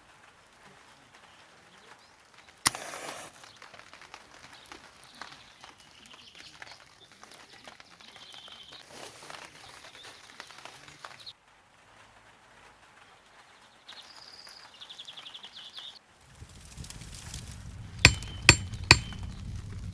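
Forest ambience with short songbird chirps and a trill. A sharp click comes about three seconds in; near the end, three sharp knocks about half a second apart sound over a low rumble.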